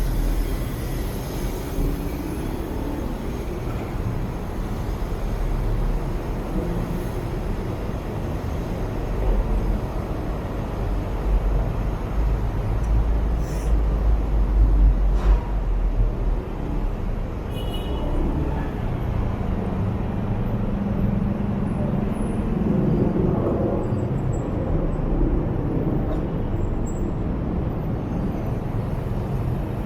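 A motorbike ride through city traffic: steady engine, tyre and surrounding traffic noise.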